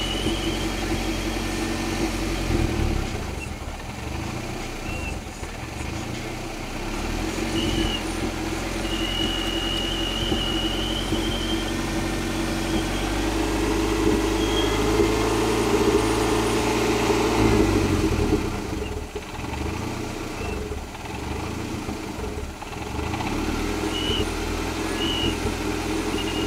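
1991 Toyota MR2 Turbo's 3S-GTE turbocharged four-cylinder idling unevenly, its idle shifting several times, with a thin high whistle that comes and goes, longest for a few seconds in the first half. The owner suspects the whistle comes from the aftermarket blow-off valve.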